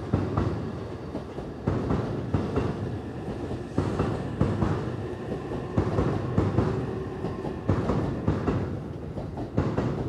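JR East E531-series electric commuter train pulling out of the platform, its cars rolling past with a steady rumble. The wheels clack over a rail joint in a cluster of knocks about every two seconds as each car goes by.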